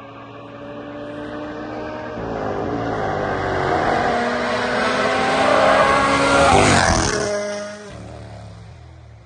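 Rally car approaching at speed, its engine growing louder and rising in pitch, passing close about seven seconds in with a sudden drop in pitch, then pulling away and fading.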